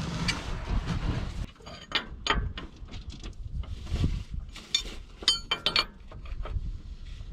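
Scattered metallic clinks and knocks of tools and hardware being handled during work under a truck, with a cluster of quick clicks about five seconds in.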